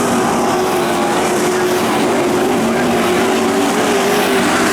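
Several race trucks' engines running together at steady speed on a dirt oval, their overlapping engine notes wavering slightly.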